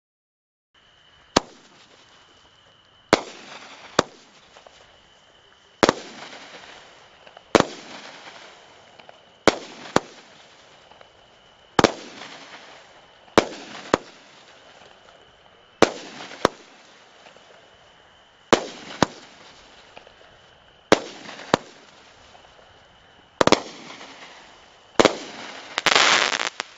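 A 12-shot consumer firework cake firing shot after shot, about every two seconds: each a sharp launch report, often followed within a second by the bang of the shell breaking. The last shots end in a dense crackling burst near the end.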